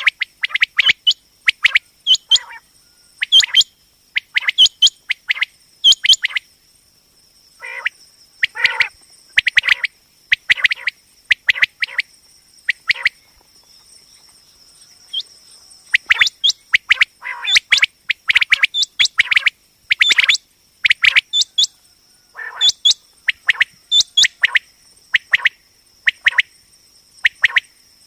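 Common quail calling over and over: short, sharp notes in quick runs, with a lull of a few seconds about halfway through. A faint steady high-pitched tone runs underneath.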